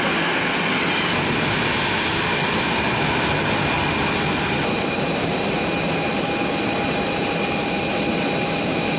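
Jet aircraft engine noise: a steady, loud rush with high whining tones. The whine changes pitch abruptly about halfway through.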